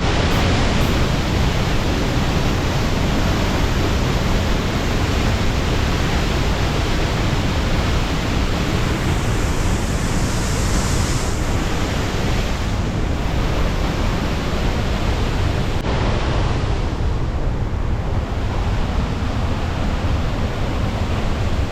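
Waterfall and creek cascade rushing, a steady loud roar of falling, fast-flowing water.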